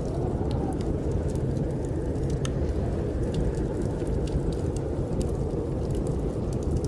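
Steady low roar of snowstorm wind, with the scattered sharp crackles of a wood fire burning in a fireplace.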